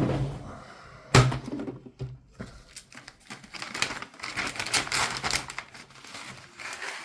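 Plastic vacuum-sealer bag crinkling and rustling while being handled, with scattered clicks and a sharp knock about a second in.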